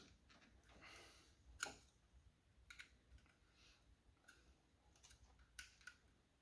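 Faint, scattered clicks and light knocks of small door parts being handled as the lock rod is fitted to the door handle inside a car door, about half a dozen in all, over near silence.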